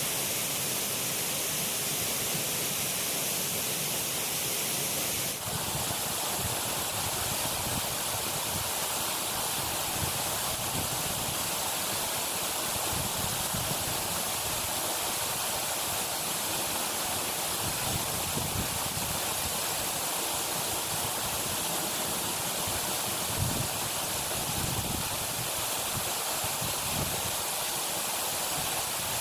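Steady hiss of water, either rain or running water, with no speech. The tone shifts slightly about five seconds in, and a few soft low bumps come in the second half.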